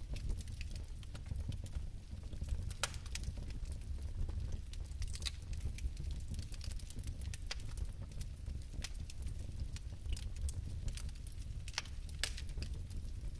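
Fire crackling: irregular sharp pops and ticks, several a second, over a steady low rumble of the flames.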